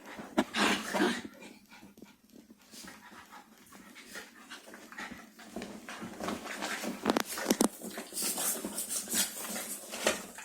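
Two poodles play-fighting without barking: panting and short scuffling noises, busier in the last few seconds.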